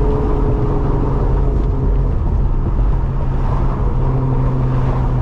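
Car engine running at a steady cruise with a constant drone, over low road and tyre rumble, heard from inside the cabin while driving.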